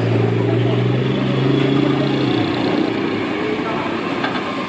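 Turret truck motor running nearby with a steady low hum that cuts off about two and a half seconds in, over background voices and market bustle.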